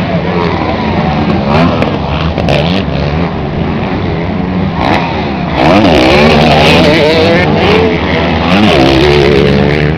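Several motocross bikes' engines revving, their pitch rising and falling as they accelerate, getting louder about halfway through.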